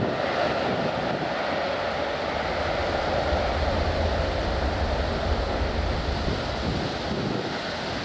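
Jet engines of a Boeing 737-800 at takeoff power: a steady rushing roar that fades gradually.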